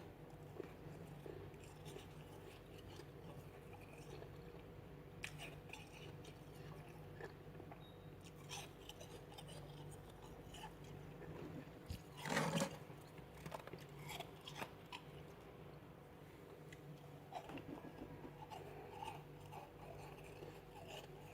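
A person chewing freezer frost, with scattered crunches of the ice between the teeth and one louder crunch about twelve seconds in. A low steady hum runs underneath.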